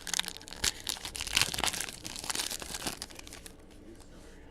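Trading card pack wrappers being torn open and crinkled, a busy crackling that lasts about three and a half seconds and then dies down.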